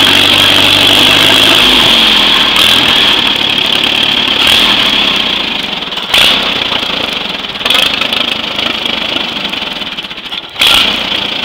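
1937 Allis-Chalmers tractor engine running. About two seconds in its steady tone changes, and from the middle on it swells suddenly several times, roughly every second and a half.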